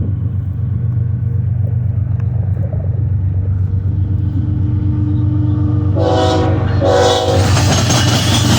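Diesel freight locomotive rumbling steadily; about six seconds in its air horn sounds, a longer blast and then a short one, and a louder rushing, clattering noise of the passing train follows.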